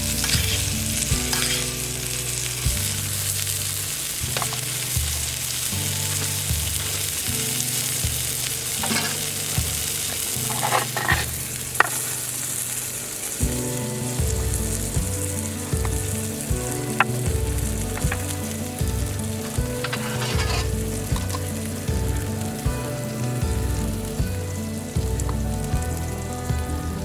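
Steak sizzling as it fries over a campfire: a steady crackling hiss, with a few sharp clicks scattered through.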